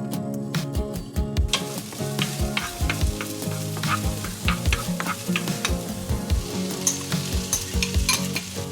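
Food sizzling in a hot frying pan, the sizzle starting about a second and a half in, with sharp clicks of a utensil stirring against the pan.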